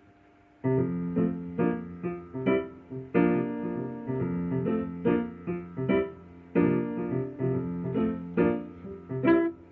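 Keyboard playing a solo intro in a piano voice: rhythmic struck chords that begin about a second in.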